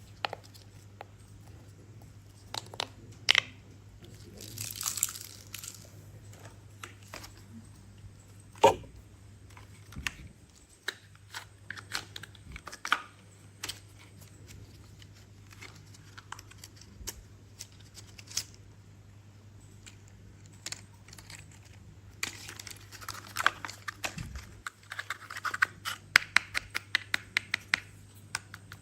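Plastic toy truck and crane parts handled by hand: scattered clicks and knocks with some rustling, and a quick run of clicks near the end.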